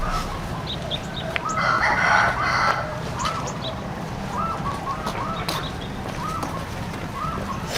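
Chickens calling: a louder harsh call about a second and a half in, then short clucks repeating about once a second.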